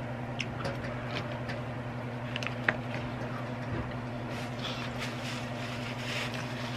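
A person chewing a cheeseburger, with small wet mouth clicks, over a steady hum. Paper napkin rustling comes in over the last couple of seconds.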